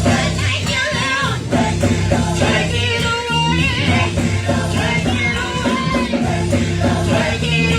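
Gospel song performed by a choir and band: a lead singer and voices over a steady bass line and guitar.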